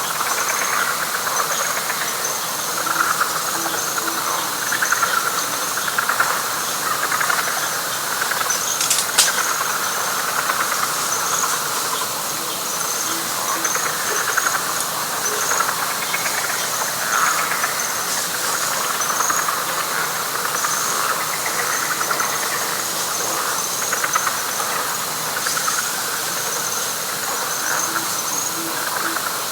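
Night chorus of frogs and insects: a dense, pulsing frog chorus in the middle range under a high, rapid insect trill that goes on without a break, with one sharp click about nine seconds in.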